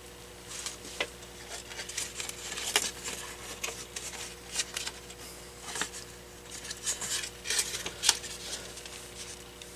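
AC power adapters being handled and sorted: hard plastic plugs and casings clicking and clattering against each other in irregular short bursts. A faint steady hum runs underneath.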